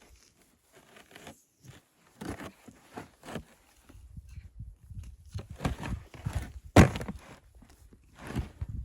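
Footsteps in snow: an uneven series of short steps, getting louder about halfway through, with one sharper knock about seven seconds in.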